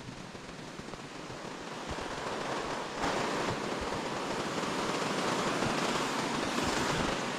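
Rushing river water, a steady noisy rush that grows louder and swells sharply about three seconds in.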